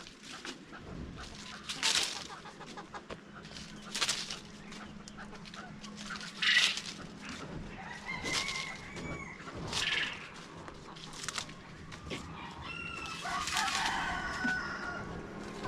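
Chickens clucking and squawking in short bursts, with a rooster crowing near the end over a steady low hum.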